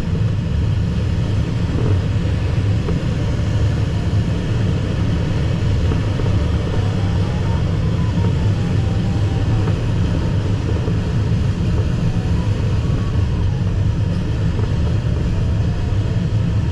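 Steady airflow rumble in the cockpit of an ASW 15 sailplane in gliding flight, with a faint electronic variometer tone drifting slowly up and down in pitch from about six seconds in.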